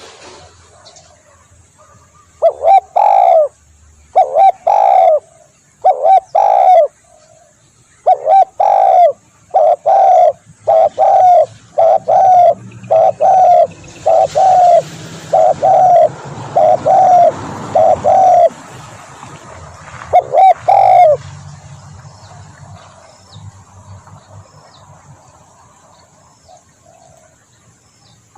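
Spotted dove cooing: loud, repeated low coo notes in short phrases, building to a long run of about a dozen coos in the middle, then a last pair and a quieter stretch near the end.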